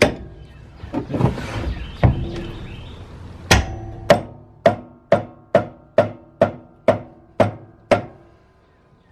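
Rubber mallet striking a wrench to break loose the blade bolt on a Toro walk-behind mower deck. A few blows come first, then a steady run of about two blows a second, each with a short metallic ring from the wrench.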